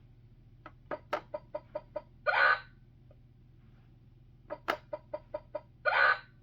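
Fisher-Price Great Adventures Magic Castle electronic sound effect, set off twice by tapping a figure's nose. Each time it plays a quick run of about eight clicks, about five a second, then a short noisy burst.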